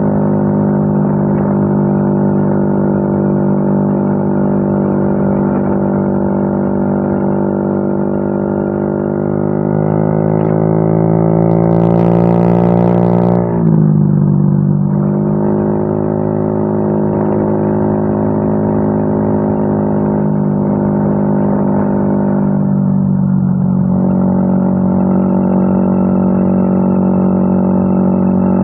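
Yamaha Mio M3 scooter's single-cylinder engine running through an aftermarket WRX exhaust, idling steadily. About ten seconds in it is revved up gradually for a few seconds, then drops suddenly back to idle.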